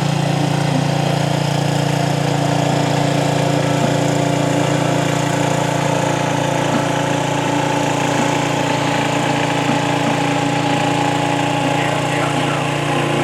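Sears Suburban garden tractor engine running steadily at an even speed.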